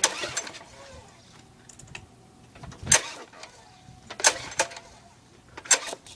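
Recoil pull-start rope on a rebuilt small engine yanked hard four times, each pull a quick rasping zip as the engine cranks over. The engine does not catch and run between pulls.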